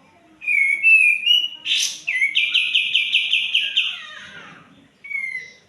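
Kapas tembak songbird singing: a few loud whistled phrases, then a fast run of about ten repeated notes, and one short whistle near the end.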